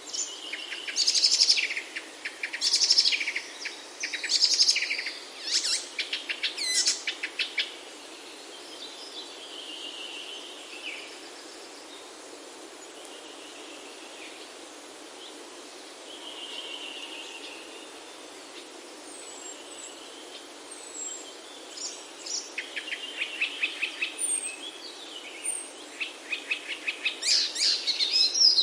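Songbirds singing: bursts of rapid chirps and trills, loudest for the first several seconds and again near the end, with softer calls in between, over a steady background hiss.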